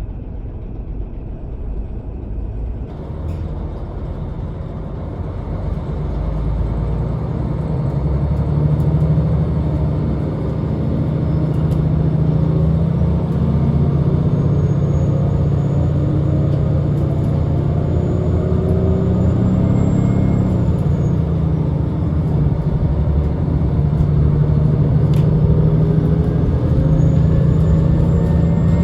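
Diesel railcar engine pulling away and accelerating. The engine note grows louder over the first several seconds, then holds loud and steady, with a faint rising whine in the second half.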